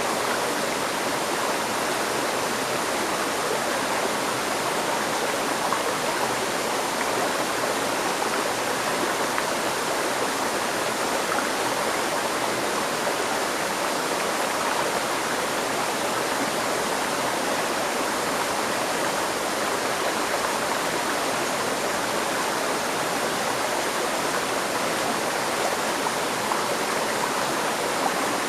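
Steady rushing of a flowing river stream, an even unbroken wash of water noise.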